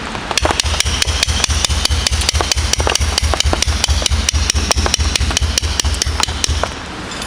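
Rapid, regular striking, about six hits a second, each a dull thud with a bright ringing edge, over steady rain; it stops shortly before the end.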